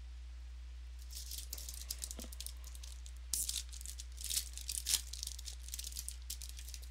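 Trading-card pack wrapper crinkling and tearing as a pack is opened, an irregular run of sharp crackles with two louder bursts in the middle, over a steady low hum.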